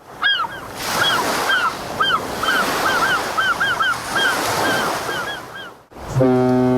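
Subway platform train-approach jingle made of recorded ocean surf with a string of repeated seagull cries. Just before the end the surf drops away, and a long, steady ship's horn starts.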